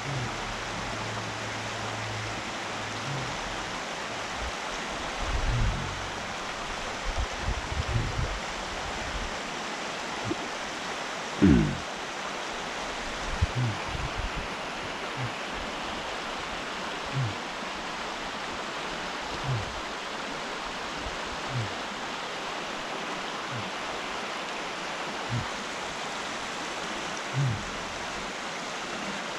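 A steady rushing noise, with scattered low thumps and knocks; the loudest knock comes about eleven seconds in, and single ones follow every couple of seconds.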